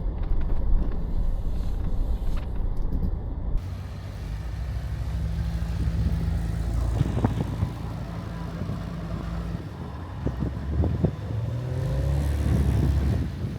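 Inside the cab of a 4x4 truck driving slowly over a snowy trail: the engine and drivetrain hum steadily. Scattered short squeaks and clicks come through the middle, the kind the windshield makes when it is wet and the truck bounces on rough ground.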